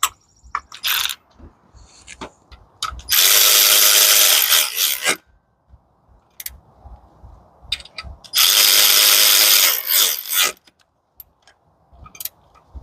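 Power driver run in two bursts of about two seconds each, driving in fasteners, with light clicks and knocks of parts being handled between them.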